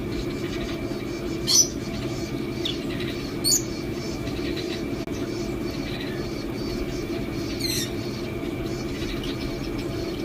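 Caged pet birds giving a few short, sharp, high chirps, three loud ones and some fainter calls between, over a steady low hum.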